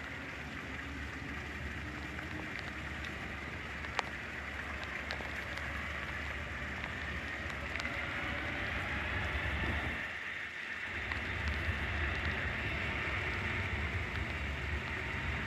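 Jet airliner engines running, a steady roar with a high whine that slowly grows louder. There is a single sharp click about four seconds in.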